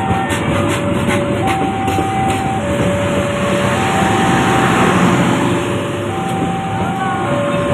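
Railway level-crossing warning alarm sounding an electronic two-tone signal that alternates high and low about once a second, over the steady rumble of a passing train. A few sharp clicks of wheels over rail joints come in the first second or so.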